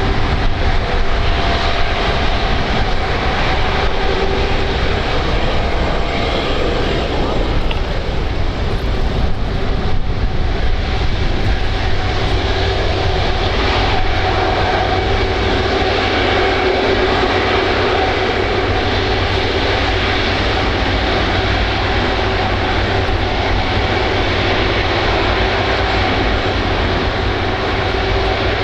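Airbus Beluga XL's Rolls-Royce Trent 700 jet engines running steadily: a continuous rumble with a steady whine on top.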